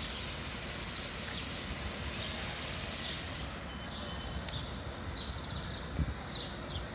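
Porsche 911's flat-six engine running at low speed as the car creeps over cobblestones, a steady low rumble. Small birds chirp repeatedly in short high notes over it.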